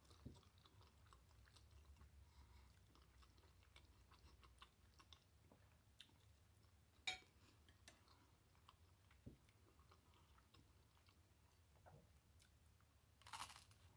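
Faint chewing and mouth sounds of someone eating spaghetti, with scattered soft ticks and a sharp click about seven seconds in, a fork against the plate. Near the end comes a short, louder crunch, a bite into a piece of bread.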